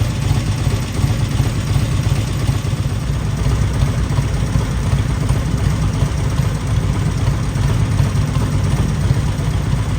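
An engine running steadily at idle, a constant low rumble.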